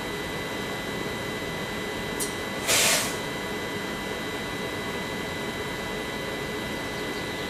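A TER passenger train standing at a platform, its onboard equipment running with a steady whirring hum and a high, even whine. About three seconds in there is a faint click, then a short, loud hiss.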